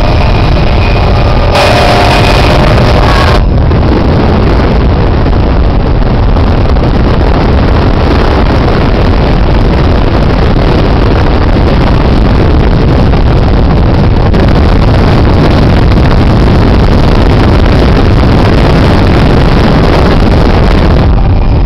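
Helicopter engine and rotor noise heard from inside the cabin: very loud and steady, with a short higher tone sounding about two seconds in.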